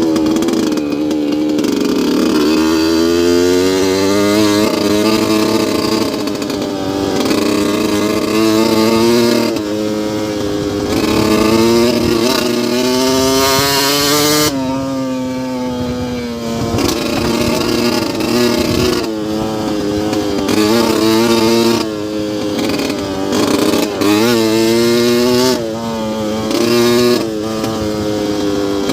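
2002 Yamaha YZ125's 125cc two-stroke single-cylinder engine running hard. The revs climb in long rising sweeps and drop sharply again and again as the throttle is chopped, every few seconds in the second half.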